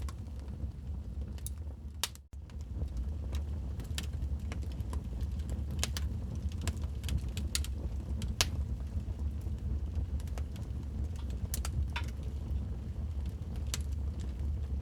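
Wood fire crackling in a fireplace: irregular sharp pops and snaps over a steady low rumble, with a brief dip in level about two seconds in.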